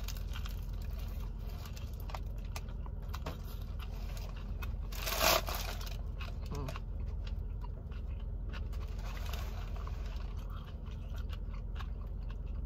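Biting into and chewing a crusty multi-grain sub roll loaded with crisp vegetables: soft irregular crunching and mouth clicks, with one louder brief noisy sound about five seconds in. A steady low hum runs underneath.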